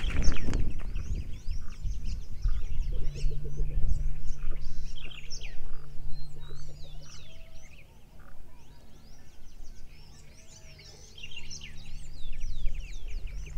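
Many birds chirping and calling over one another. There is a low rumble in the first few seconds and a steady low hum for a few seconds after that.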